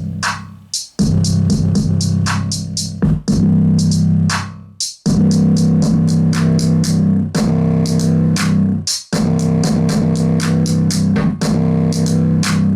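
Electronic music with a drum-machine beat and heavy, sustained bass, played loud through Aiwa home stereo speakers with the bass boosted, which are being pushed to blow. It breaks off briefly a few times.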